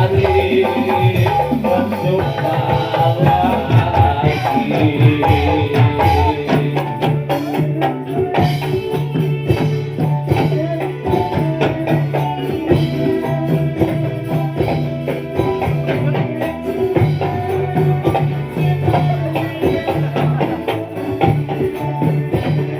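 Live dolalak ensemble music: frame drums and jingling tambourine-like percussion over a steady low drum beat, with a repeating melodic line.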